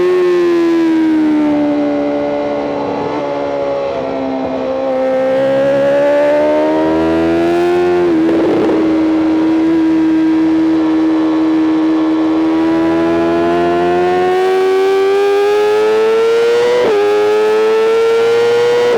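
BMW M 1000 RR's inline-four engine heard from on board: revs drop off as the throttle eases in the first few seconds, then climb under acceleration, with a quick upshift about eight seconds in and another near the end, the engine note rising steadily between them.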